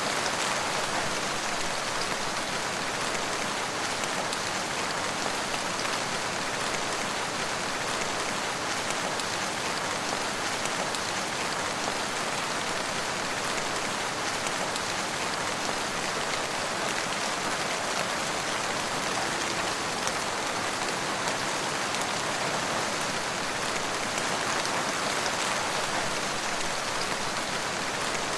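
Steady, heavy rain falling: a continuous, even hiss with a dense patter of drops, unchanging throughout.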